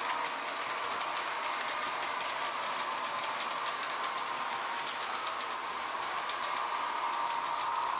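H0-scale model trains running on the layout: a steady small electric motor whine that wavers a little in pitch, with faint ticking from wheels over the rails.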